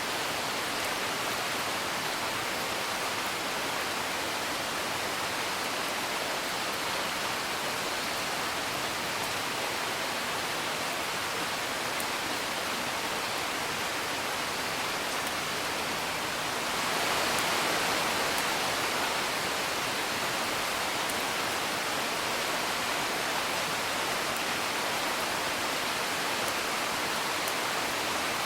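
Steady rain, an even hiss, swelling a little louder for a couple of seconds about two-thirds of the way through, with a few faint clicks.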